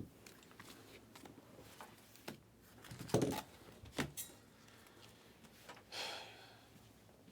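Trading cards being handled on a table: a few light taps and knocks, then a brief sliding brush about six seconds in.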